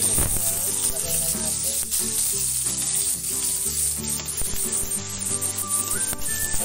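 Chopped onion, garlic and chili sizzling steadily in hot cooking oil in a metal pan, stirred now and then with a metal spatula: the aromatics being sautéed before the meat goes in.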